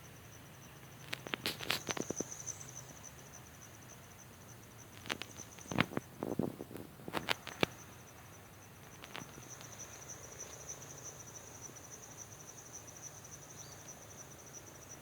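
Cricket chirping steadily in a high, rapidly pulsing trill. Clusters of sharp clicks and knocks come about a second in, again around five to seven seconds in, and once near nine seconds.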